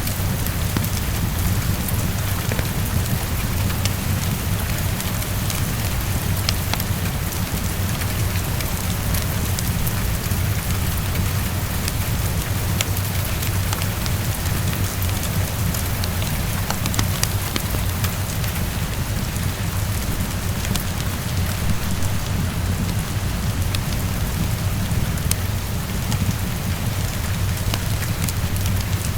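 Heavy rain falling steadily against a window, a dense even hiss over a steady low rumble, with scattered faint ticks and clicks.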